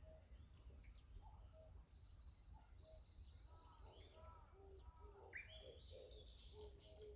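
Several wild birds calling and singing faintly among trees: repeated short low notes, a held high whistle, and a quick rising phrase about five seconds in.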